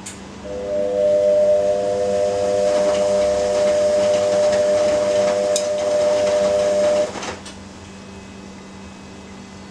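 Ariston AQXL95 washing machine making a loud, steady whistling hiss for about six seconds, starting after a click and cutting off suddenly.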